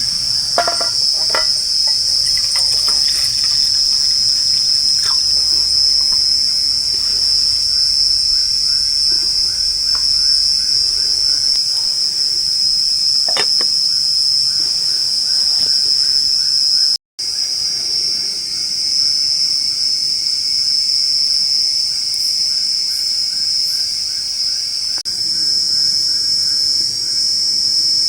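Night chorus of forest insects: a loud, steady, high-pitched drone, with a second, softer call pulsing several times a second behind it. A few sharp clicks in the first few seconds and once near the middle, and the sound breaks off for an instant just past the middle.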